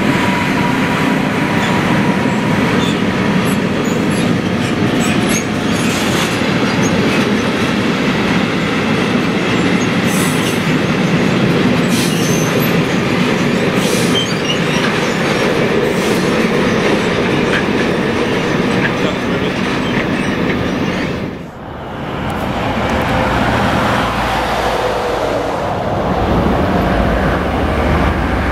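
Freight train wagons rolling past loudly, wheels clattering over rail joints with a faint wheel squeal. The sound drops briefly about three-quarters of the way through, then resumes with a deeper rumble.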